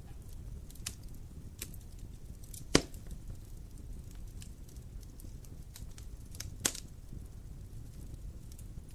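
Wood fire crackling over a low steady rumble of flames, with scattered small snaps and two sharp, louder pops about four seconds apart.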